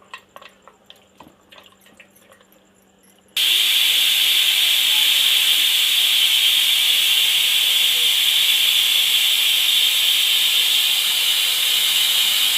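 A few faint small clicks. Then, about three seconds in, a loud steady steam hiss starts abruptly and keeps going: a pressure cooker whistling, its weight valve letting off steam once the cooker is up to pressure.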